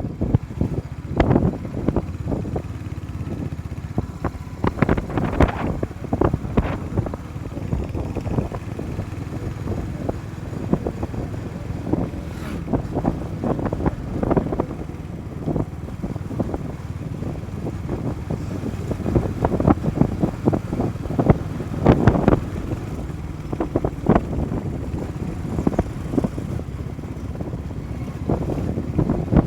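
Wind buffeting the microphone on a moving motorcycle, with engine and road noise running steadily underneath. Uneven gusts and thumps come and go throughout.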